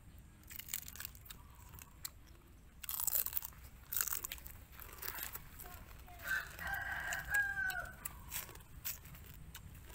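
Crunching and chewing of small cooked crabs, shells cracking in a string of crisp clicks, loudest around three to four seconds in. A rooster crows once, about six seconds in, for a second and a half, its call dropping at the end.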